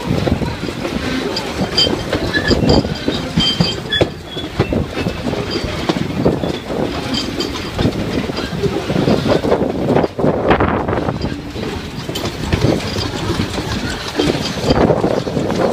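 Passenger train rolling along the track: a steady rumble with wheels clattering and knocking over the rails, and short high squeals from the wheels now and then.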